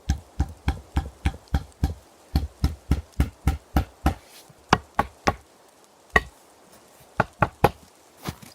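A rapid series of sharp knocks, about three a second, with a short pause about two seconds in. After about four seconds the strikes come fewer and at uneven intervals.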